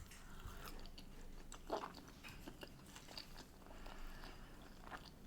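Faint chewing of fish and chips close to the microphone: soft mouth clicks and smacks, with a clearer one a little under two seconds in and another near the end.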